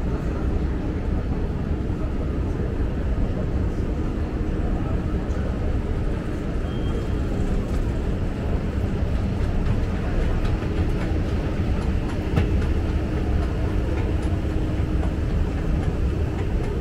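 A train running, a steady low noise with a faint even hum and no clear starts or stops.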